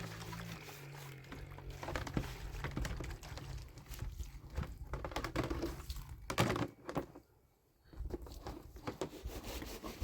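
Irregular light knocks, thuds and rustling, as of objects being handled, with a brief near-silence about three-quarters of the way through.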